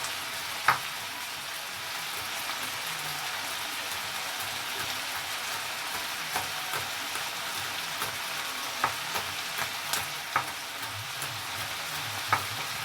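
Chicken frying in oil and oyster sauce in a pan, a steady sizzle with a few sharp clicks scattered through it.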